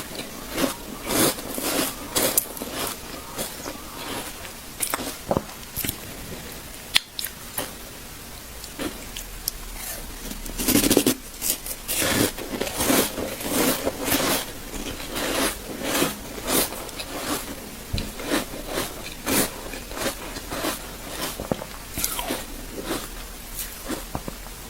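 A person biting and chewing ice: sharp, uneven crunches one or two a second, with a quick run of loud crunches about eleven seconds in.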